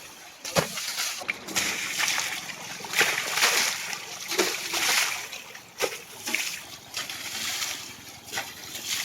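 Water splashing and sloshing as a tractor is washed, in uneven surges with a few sharp knocks.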